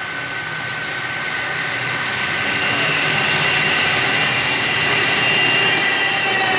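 Freight train led by two diesel locomotives approaching and passing close by, growing steadily louder as the lead locomotive draws level near the end, with steady high-pitched tones over the engine and rail noise.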